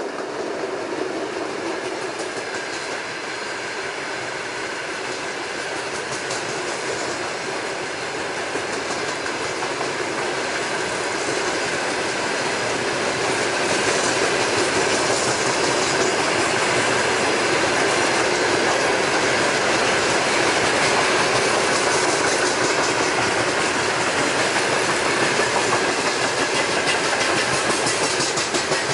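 A long train of empty open coal wagons rolling past: a steady rush of wheels on rail with a rhythmic clickety-clack, growing louder about halfway through.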